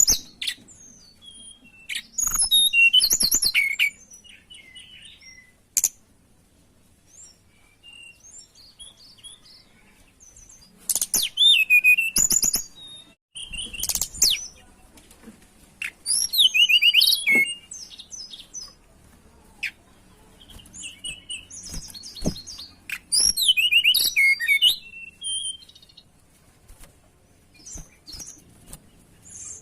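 A tledekan songbird singing in bursts of rapid, high, squeaky twittering phrases, each a second or two long, with pauses between them: the lively song of a bird in breeding condition.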